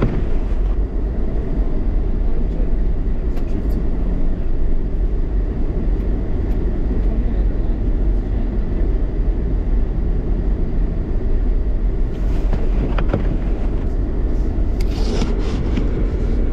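Steady road and engine noise inside a moving car's cabin: a low, even rumble with a few faint rattles later on.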